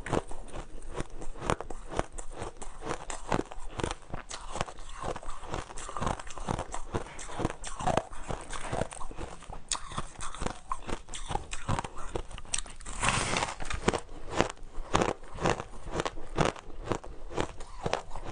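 Close-up biting and chewing of crunchy flavoured shaved ice: a continuous run of crisp crunches, with one longer, louder crunch about two-thirds of the way through.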